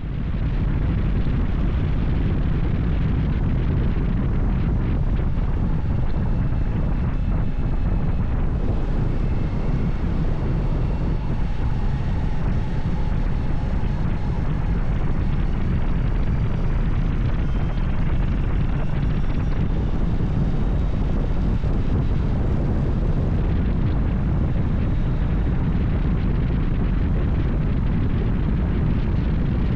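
Motorcycle riding at road speed: a steady low rumble of engine and wind noise on the microphone, with faint tones drifting up and down in pitch partway through.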